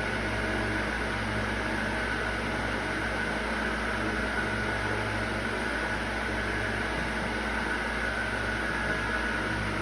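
Steady mechanical hum with a constant high whine, like a running fan or air-conditioning unit, holding level throughout.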